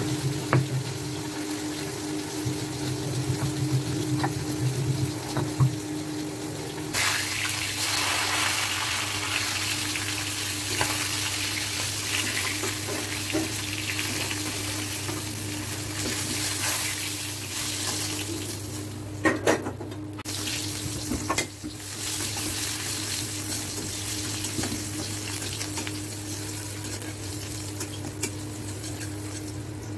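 Tilapia pieces, then sliced onion, frying in hot oil in a kadai: a steady sizzle that starts about seven seconds in, with a few clinks and scrapes of a spatula against the pan. Before it, the low rubbing rumble of a stone roller grinding spices on a stone slab.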